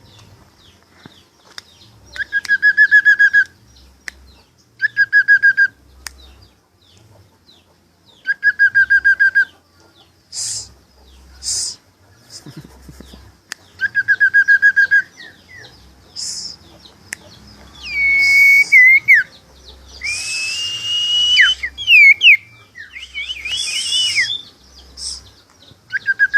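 A tame pet bird calling: a rapid trilled note about a second long, repeated every few seconds. In the second half come sliding whistled notes and harsher squeals.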